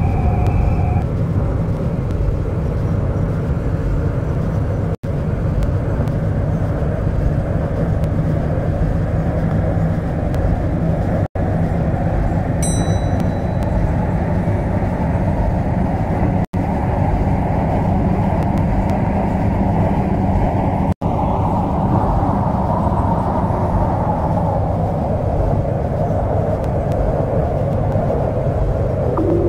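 MTR C-Train electric multiple unit running with a steady, loud rumble of rolling and traction noise. A faint motor whine rises and then falls in pitch about two-thirds of the way through. A brief electronic two-tone sound comes at the very start, and the sound drops out for an instant four times.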